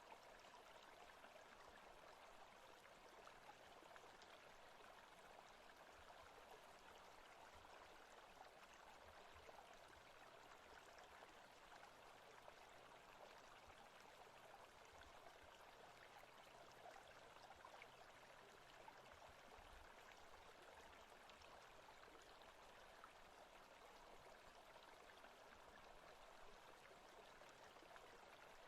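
Faint, steady forest ambience: an even, unbroken hiss with no distinct events.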